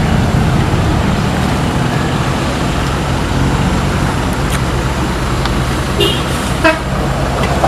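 Heavy truck's diesel engine running with a steady low drone, with two short horn toots about six seconds in.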